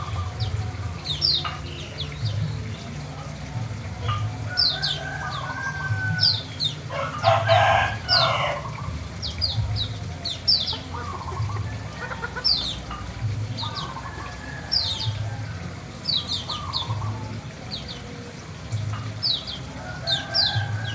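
White-eyes (pleci) calling over and over with short, high, falling chirps. Chickens call in the background, loudest about seven seconds in.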